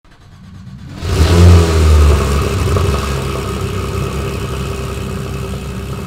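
Porsche 911 GT3's 3.8-litre flat-six engine running. It fades in over the first second, comes in loud, then holds a steady note that eases slowly.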